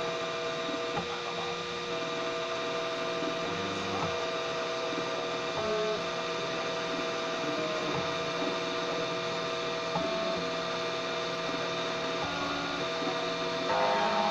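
3D printer's stepper motors whining in steady tones that jump to a new pitch every second or two as the print head changes moves, over a constant hum. The whine gets louder and busier near the end.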